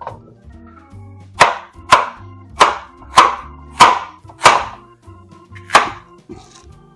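Kitchen knife chopping vegetables on a cutting board: seven sharp strokes, about one every two-thirds of a second, with a gap before the last.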